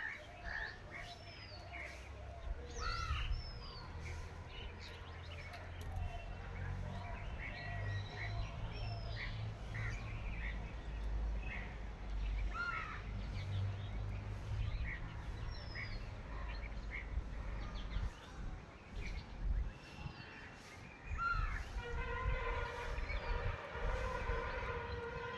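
Birds chirping and calling in short, repeated notes over a steady low rumble. A steady humming tone with several overtones joins near the end.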